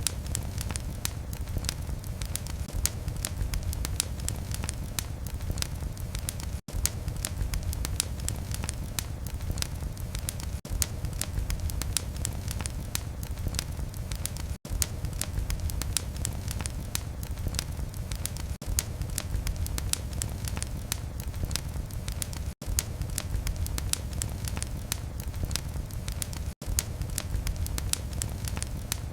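Wood fire burning in a fireplace: a steady low rumble of flames under many quick, irregular crackles and pops. The sound drops out for a split second a few times.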